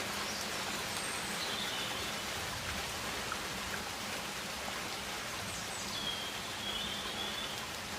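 Rainforest ambience: a steady hiss like rain or running water, with faint high whistling calls twice.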